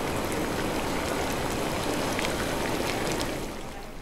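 Noodles sizzling in hot oil in a frying pan: a dense, steady hiss with scattered crackles and pops, dropping away about three and a half seconds in.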